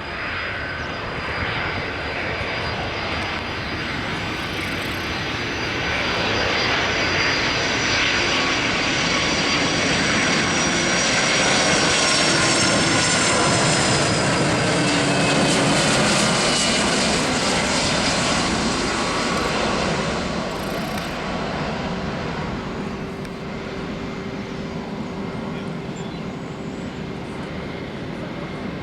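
Boeing 757 jet engines passing by on landing: a whining roar that builds to a peak midway, with high whine tones falling in pitch as it goes by, then eases to a lower steady rumble.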